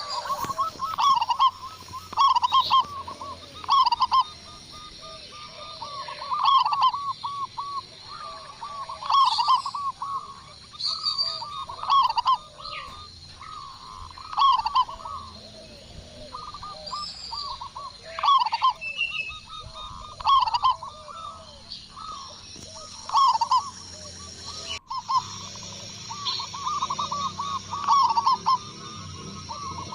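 Zebra dove (perkutut) cooing: phrases of rapid, rolling staccato coos repeated every second or two.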